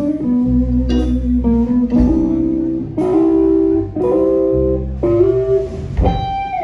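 Live blues band playing a slow song: electric guitar lines over bass and drums, with the beat falling about once a second. A note slides down in pitch near the end.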